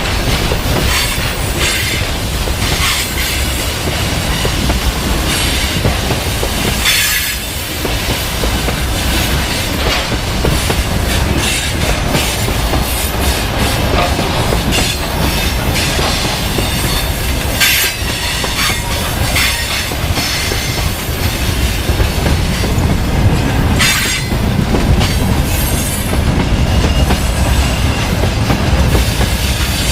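Freight train rolling past: a steady rumble of wagons on the rails, with sharp wheel clacks over rail joints, the loudest about a quarter, two thirds and four fifths of the way through.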